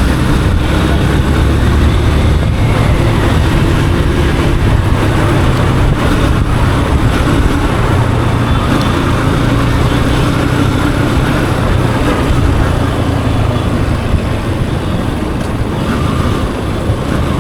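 Yamaha FZ's single-cylinder engine running while riding, its pitch drifting gently up and down with the throttle, over steady wind and road noise.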